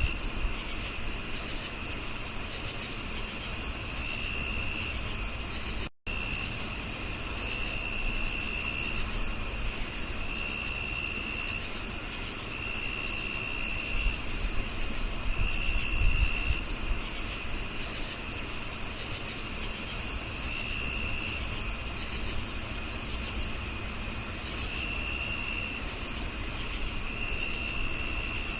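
A chorus of crickets chirping: a steady high trill, a regular pulsed chirp at about two to three chirps a second, and a lower trill in bursts of about a second every couple of seconds. The sound cuts out completely for an instant about six seconds in.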